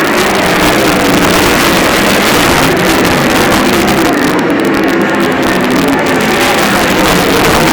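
Sprint cars racing on a dirt oval, several engines running hard at once with their pitches wavering as they rise and fall.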